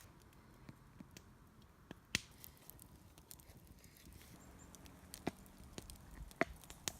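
Campfire wood crackling: scattered sharp snaps and pops at irregular intervals, a few of them louder, over a faint background.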